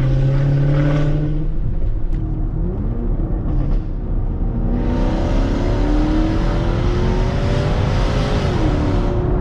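Supercharged 5.0-litre V8 of a Range Rover L322 running under load. Its pitch drops off about one and a half seconds in, climbs steadily as the car accelerates from about five seconds in, and falls away again near the end.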